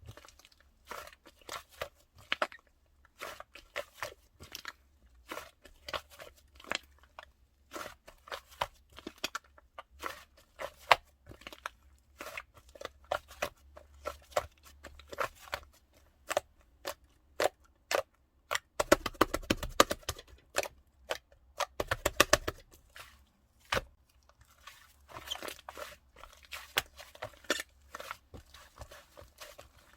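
Close, irregular crunching and crackling in short bursts, denser and louder around twenty and twenty-two seconds in.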